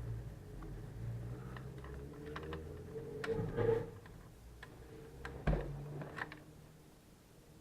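Scattered small clicks and taps of tweezers and plastic laptop parts as a small part is pushed and fiddled into its seat, one sharper click about halfway through, over a faint steady hum.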